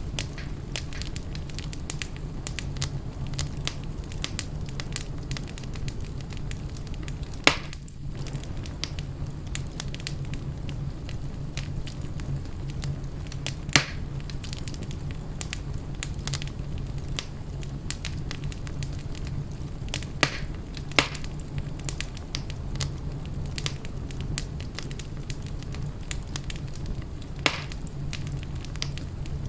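Fire in a fireplace crackling steadily over a low rumble, with five louder pops scattered through.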